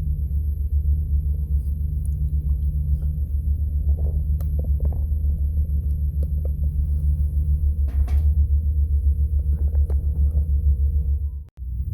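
Steady low rumble, like an engine heard from inside a vehicle or boat, with a few faint knocks and clicks over it; it cuts out briefly near the end.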